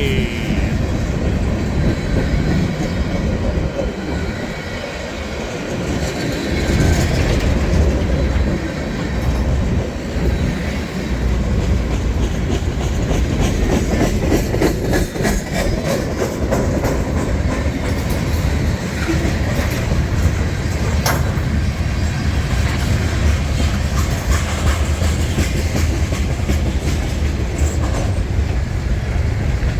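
Freight train cars rolling past, their wheels clicking rhythmically over rail joints with a steady rumble and now and then a faint wheel squeal.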